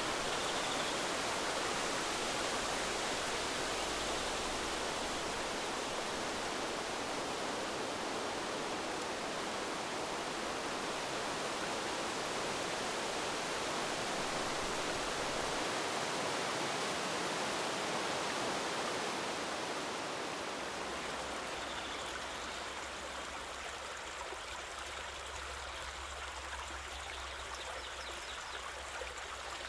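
River water flowing with a steady rushing sound, easing a little about two-thirds of the way through.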